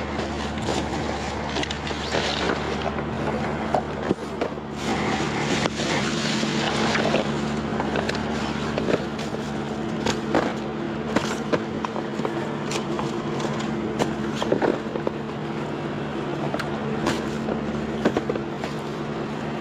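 Rummaging through trash in a dumpster: irregular knocks, clicks and rattles of items being handled and moved. Under them runs a steady low machine hum.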